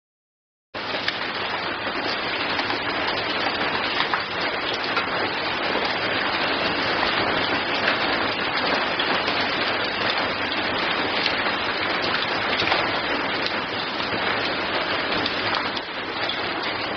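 Steady rain falling, an even hiss of many drops, starting suddenly just under a second in.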